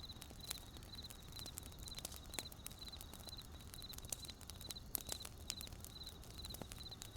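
Wood campfire crackling with scattered sharp pops, over a cricket chirping steadily in short high trills about twice a second.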